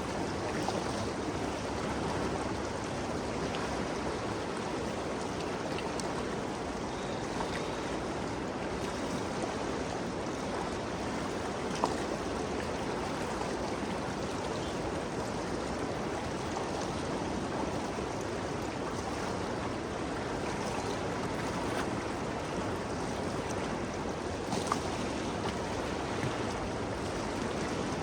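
Ganges River flowing as a steady rushing wash of water, with a few faint sharp ticks about twelve seconds in and near the end.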